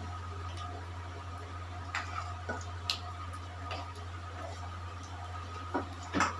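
Chicken pieces frying in hot oil, a steady sizzle with a low hum under it, broken by a few sharp clicks and knocks of kitchen utensils, the loudest near the end.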